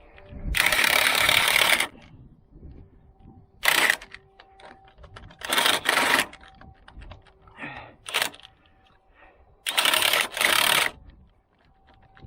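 Pneumatic air tool in an auto repair shop run in repeated short bursts, about five loud hissing, rattling bursts of up to a second and a half each, the first and longest near the start, as a strut assembly is taken apart.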